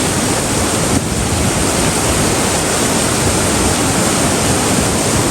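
Heavy rain pouring down in a storm, a loud steady rush that drowns out everything else, with wind noise on the microphone.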